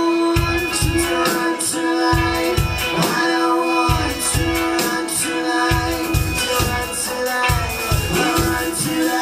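Live band playing an eighties-style dance-pop song with a steady, even beat, a held sustained note and vocals.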